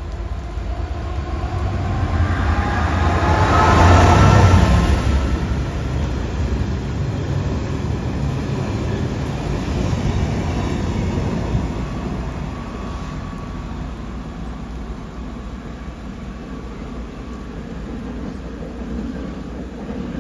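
Class 66 diesel locomotive, with its two-stroke EMD V12 engine, passing hauling a train of engineers' wagons. The engine sound builds to its loudest about four seconds in as the locomotive goes by, then the wagons' wheels run past over the rails, and the sound fades as the train draws away.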